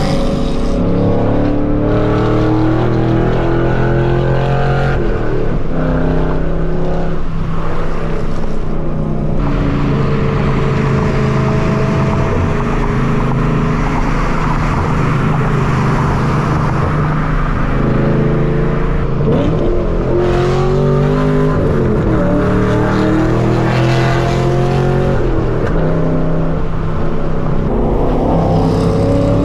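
Straight-piped 5th-generation Chevrolet Camaro SS V8 exhaust while driving, a raspy note that climbs and falls in pitch several times as the car accelerates and shifts.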